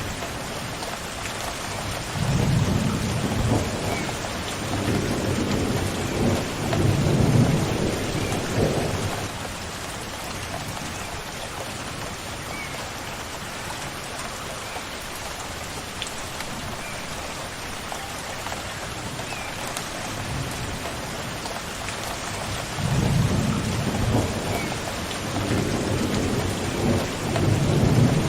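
Steady rain falling, with thunder rumbling twice: a long low rumble from about two seconds in, and another near the end. Faint short bird chirps come every few seconds over the rain.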